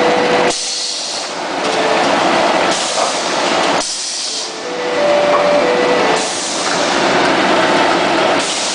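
Longitudinal veneer slicer cutting in repeated strokes: each pass is a loud hissing rush of the machine and knife through the wood, broken by a short pause, about every two seconds.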